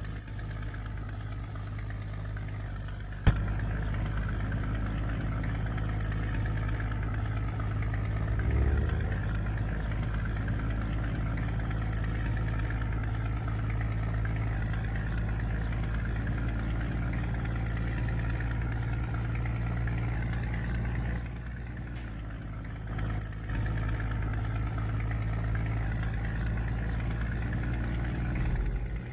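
Scania G124 truck's six-cylinder diesel engine idling steadily, with a sharp click about three seconds in.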